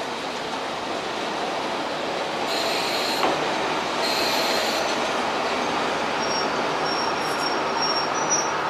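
KiHa 40 diesel railcar pulling into a station, its rolling noise growing slightly louder. Two short high squeals come about two and a half and four seconds in, then a thin, steady high squeal from about six seconds on as it slows.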